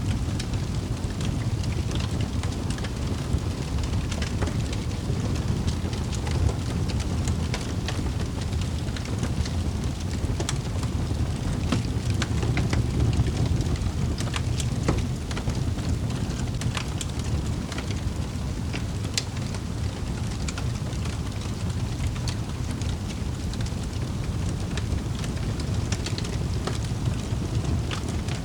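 Wood fire crackling in a fireplace: a steady low rush of flames with frequent sharp pops and snaps.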